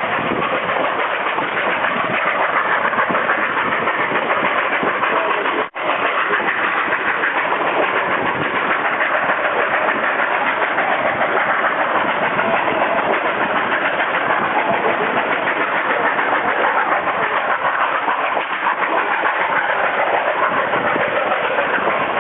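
Narrow-gauge steam train running: a loud, steady, dense rumble and hiss with no clear beat, broken by a brief dropout about six seconds in.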